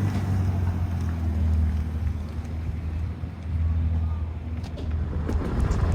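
Car engine running with a steady low rumble that dips briefly partway through.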